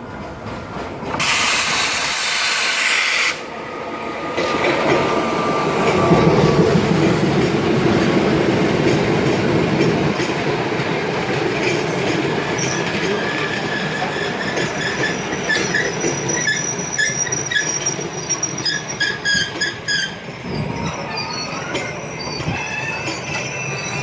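Udaya Devi diesel-hauled express train running on the rails. A loud hiss lasts about two seconds near the start, then the carriages' rumble builds, and metallic wheel squeal comes and goes through the second half.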